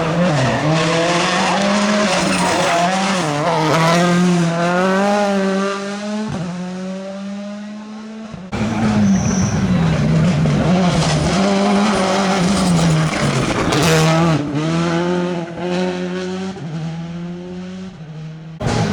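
Rally car engine running hard and revving up and down, its pitch wavering as the throttle is worked. The sound breaks off abruptly about eight and a half seconds in and again near the end, then resumes with the same engine note.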